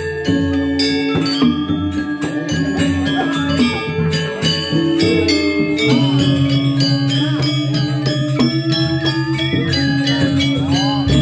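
Balinese gamelan playing: ringing metallophone notes over a steady low drone, with rapid metallic strikes throughout.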